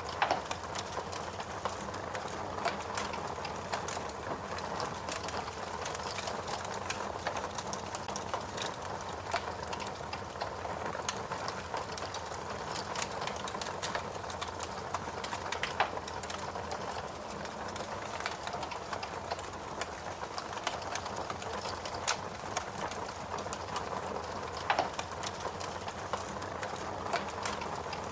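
Fire crackling steadily: a continuous soft hiss full of quick small crackles, with a few louder snaps, one right at the start, one about halfway and one near the end.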